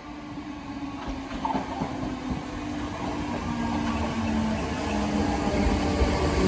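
Merseyrail 'Pep' electric multiple unit approaching, growing steadily louder, with the hum of its traction motors holding a few low tones over the rumble of the wheels.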